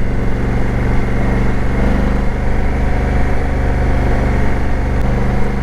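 Motorcycle engine running steadily under load while riding uphill on a mountain road, with a constant rush of road and wind noise.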